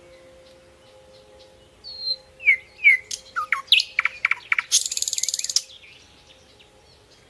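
A songbird calling: a series of short whistled notes, several sliding down in pitch, starting about two seconds in, then a harsh rapid chatter lasting about a second.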